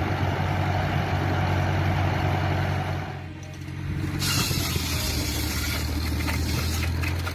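An engine-driven machine running steadily with a low hum. It eases briefly about three seconds in, and a loud hiss joins it about a second later.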